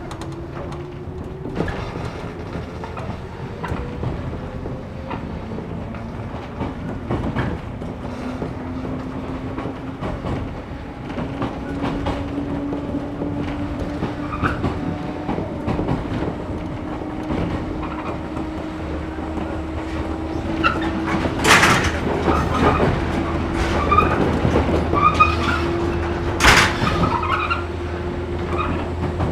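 Inside a 113 series electric train car under way: the traction motor and gear whine rises steadily in pitch as the train gathers speed under resistance control, over wheel and rail running noise. Near the end come two sharp knocks about five seconds apart.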